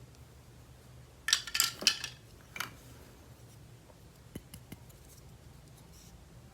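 Hands handling plastic toys and packaging in an unboxing: a quick cluster of sharp clicks and clatter about a second in, another brief clatter shortly after, then two light ticks.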